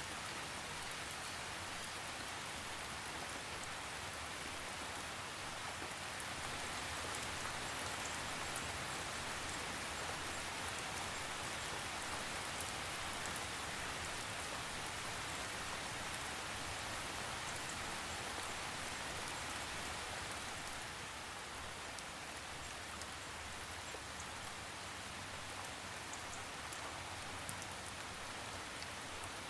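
Steady rain falling, an even hiss with scattered small drop ticks, swelling a little in the middle and easing slightly after about twenty seconds, with no thunder.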